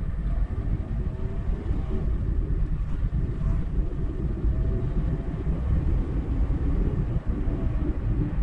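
A car driving at road speed: a steady low rumble of tyres on the road and the engine running, with faint short rising and falling whines over it.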